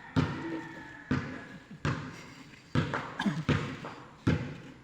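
A series of dull thuds, about six of them roughly a second apart, each dying away quickly. A brief voice is heard between them near the middle.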